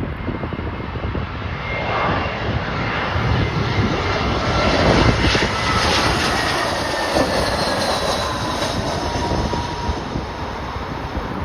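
Jet airliner on landing approach passing by, its engine rush building to a peak about halfway and then easing, with thin whine tones that slowly fall in pitch. Gusty wind buffets the microphone throughout.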